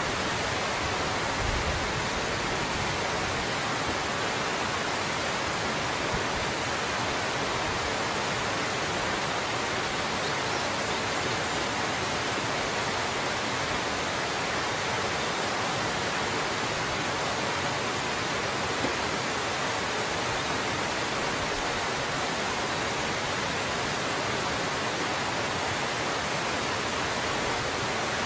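Steady, even rush of water pouring over a small ice-fringed waterfall.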